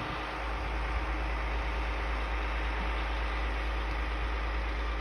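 Heavy truck engine idling steadily, a low hum.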